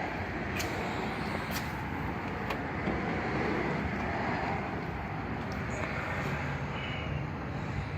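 Steady motor-vehicle noise with no clear engine note, marked by three sharp clicks about a second apart in the first few seconds.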